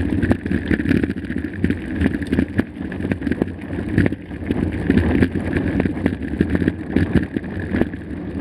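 Mountain bike riding over a rough trail: tyres rolling, and the bike rattling with frequent sharp knocks under a steady low rumble.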